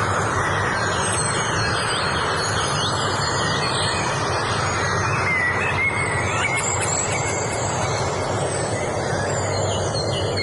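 Many birds chirping and singing in short, quick phrases over a steady rushing background noise.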